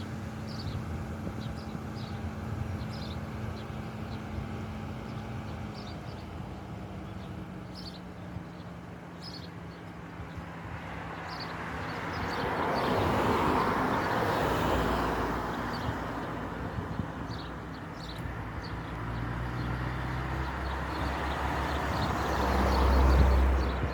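Road traffic: vehicles passing, with a swell of engine and tyre noise about halfway through and a louder one near the end, over a steady low hum. Short high chirps repeat about once a second.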